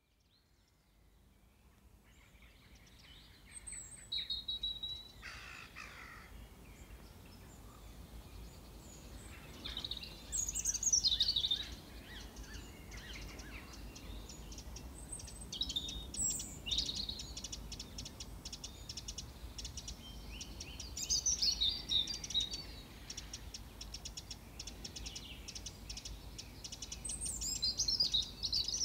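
Wild songbirds singing and chirping in short high phrases every few seconds, with rapid ticking calls in the second half, over a steady low rumble. The sound fades in over the first few seconds.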